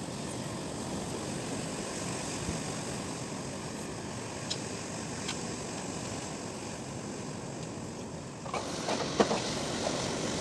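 Strong wind blowing, a steady rushing noise. About eight and a half seconds in it turns harsher, with a few knocks and rattles; the loudest comes about a second later.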